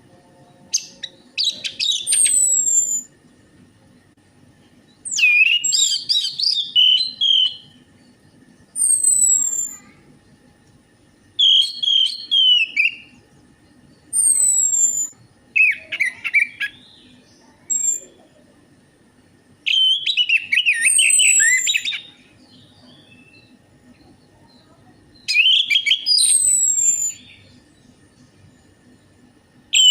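Orange-headed thrush singing: short, varied phrases of quick warbled notes and short falling high whistles, each a second or two long, coming every few seconds with pauses between.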